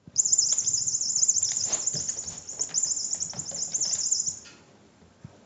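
A small bird's rapid, high-pitched chirping trill, lasting about four seconds before it stops, with light clicks underneath.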